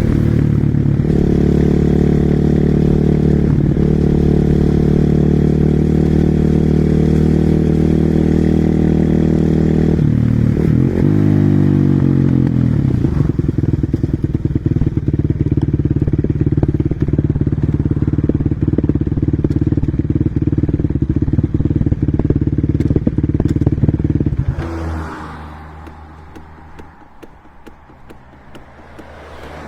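Single-cylinder four-stroke engine of a Husqvarna SM 450R supermoto running loud and steady under way. Its pitch shifts about ten seconds in to a lower, steady note with crackling, and near the end the engine sound drops away sharply.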